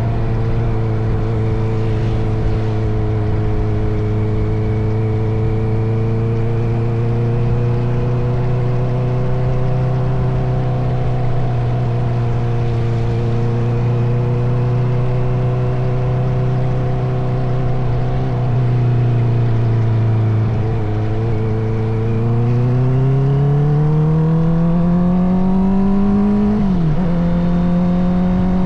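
Honda CBR650R inline-four motorcycle engine through an Akrapovic titanium exhaust, running at steady cruising revs for most of the time. Late on it accelerates with a rising pitch, dips briefly once as a gear shift, and settles at a higher steady pitch.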